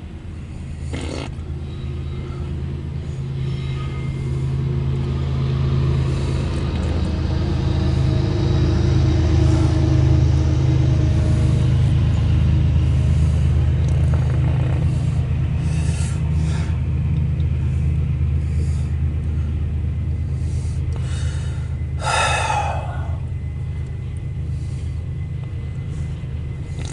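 CSX intermodal freight train rolling past: a steady low rumble that builds over the first ten seconds and then holds. A short burst of higher-pitched noise comes about 22 seconds in.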